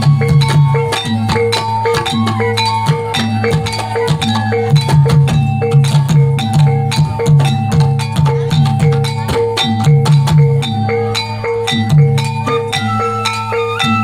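Reog percussion ensemble playing: pitched gong-chime notes repeating in a fast, even cycle over a low steady tone, with dense sharp drum strokes throughout. A higher melodic line enters near the end.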